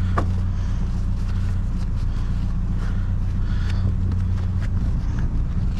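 Steady low hum of an idling vehicle engine, with faint rustling and light clicks of items being handled.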